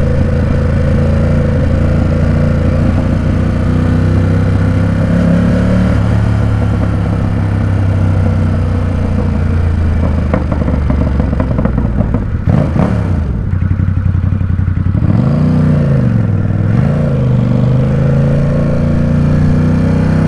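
Ducati Supersport 950 S's 937 cc L-twin engine running as the bike is ridden. A little over halfway through the revs drop and the upper part of the sound falls away, and the pitch dips and climbs twice as the rider rolls off and back on the throttle, then the engine settles into a steady pull again.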